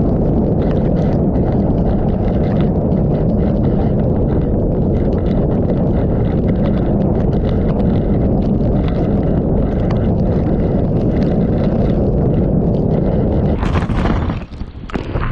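Typhoon-force wind buffeting the microphone in a steady low rumble, with rain and spray spattering. Near the end the sound turns briefly brighter, then drops away sharply for a moment before returning.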